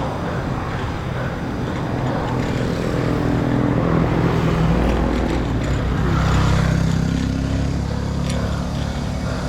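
A motor vehicle's engine running close by, growing louder through the middle and easing off near the end, over steady wind and road noise from riding.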